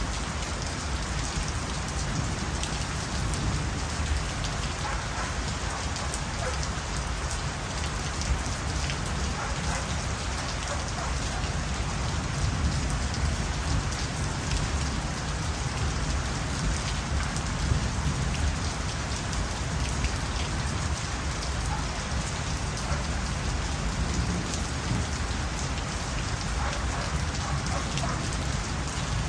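Steady rain falling, an even rushing hiss with a few louder individual drop hits standing out.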